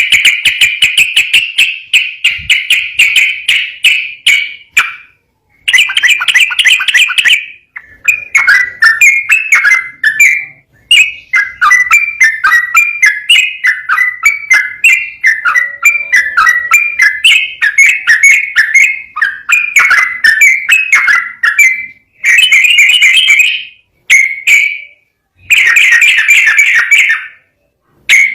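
Yellow-vented bulbul (trucukan) singing loud, rapid runs of repeated notes. The phrases come one after another with only brief pauses between them.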